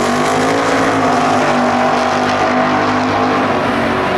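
Drag racing car's engine at high revs, its pitch climbing in the first second and then holding high.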